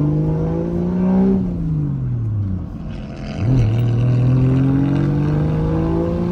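Turbocharged Toyota JZ straight-six engine heard from inside the car, pulling through the revs. The pitch climbs, falls away from about a second and a half in, and dips briefly around three seconds in at a gear change. It then climbs slowly again under acceleration.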